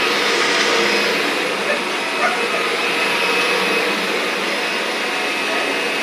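Vacuum cleaner running steadily: a constant motor whine over a dense airflow hiss.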